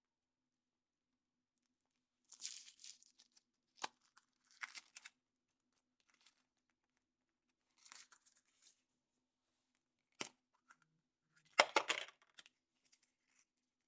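Foil wrapper being torn and crinkled off a chocolate surprise egg, in several short bursts with a few sharp clicks between them; the loudest crinkling comes near the end.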